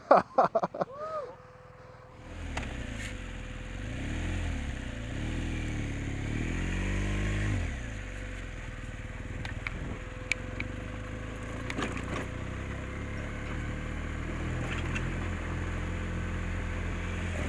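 Adventure motorcycle engine running on the move, its pitch rising and falling a few times as it pulls through the gears. Scattered sharp clicks or knocks come through it.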